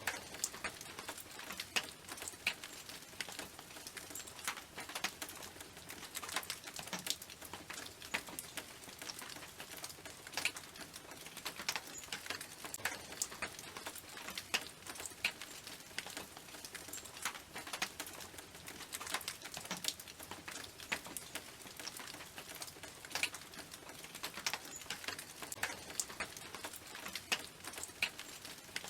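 Rain falling on a tin roof: dense, irregular drops pattering and ticking on the metal over a steady hiss.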